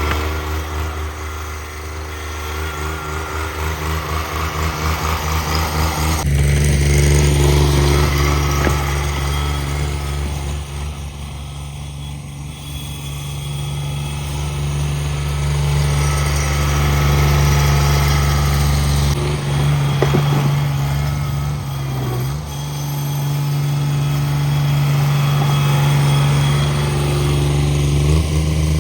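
Cub Cadet 1782 garden tractor's 18 hp Onan twin-cylinder engine running steadily. It gets louder about six seconds in, eases off midway, and briefly dips in pitch about three-quarters of the way through before picking back up.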